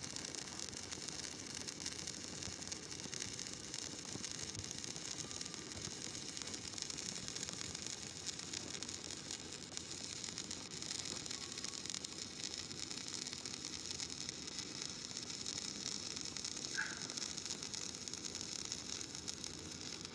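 Stick welding arc running a flat-position bead: a steady crackling hiss.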